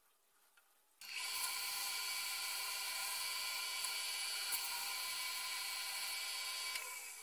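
Wood lathe running with a steady high motor whine over a hiss, coming in suddenly about a second in; near the end the pitch sinks and the sound fades as the lathe slows.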